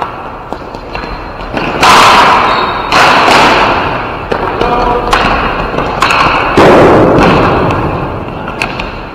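Ball hockey play: three loud bangs against the rink boards, about two, three and six and a half seconds in, each echoing off in the arena, with lighter clacks of sticks and ball between them.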